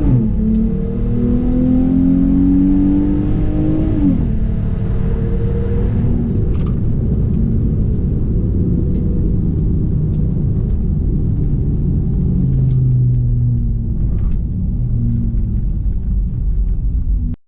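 A car engine accelerating hard. Its pitch climbs, drops suddenly at a gear change about four seconds in, and climbs again. It then settles into a lower, steadier engine note with road rumble as the car eases off.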